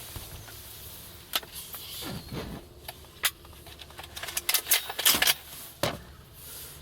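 Scattered sharp metallic clicks and rattles, with a quick run of them about four and a half to five seconds in, from a gun being handled and worked after it misfired.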